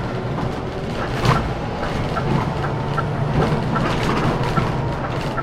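Scania K410CB coach on the move: steady low engine hum and road rumble, with a sharp knock about a second in and a light regular ticking, roughly two to three ticks a second, from about two seconds in.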